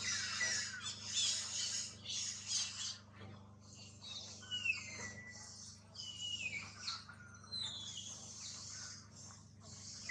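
Birds calling: shrill, harsh squawks for the first few seconds, then several whistled calls that each fall in pitch.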